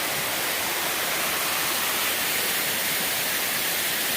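Waterfall crashing into its pool: a steady, even rush of falling water.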